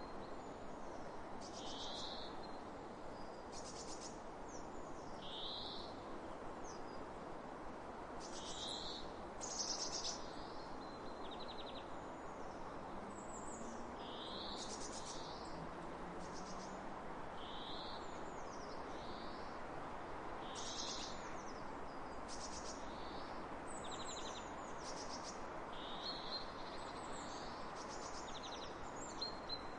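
Several songbirds chirping over and over in the open countryside, with short high calls, quick downward glides and fast trills, over a steady hiss of wind across the fields.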